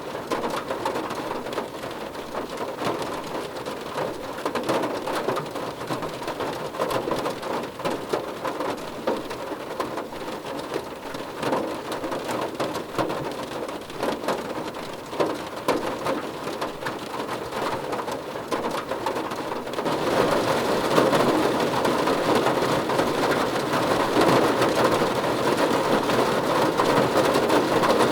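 Rain falling on a car roof: a dense patter of drops that grows louder and heavier about twenty seconds in.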